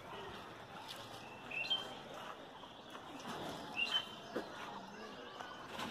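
A bird chirping: two short, high, rising chirps about two seconds apart.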